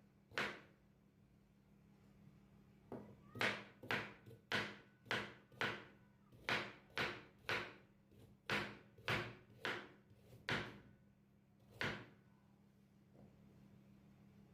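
A run of sharp knocks or taps, about two a second, over a faint steady low hum.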